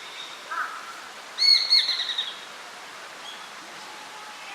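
Japanese sparrowhawk giving a rapid chattering run of sharp, high calls lasting under a second, about a second and a half in, after a fainter, lower call just before.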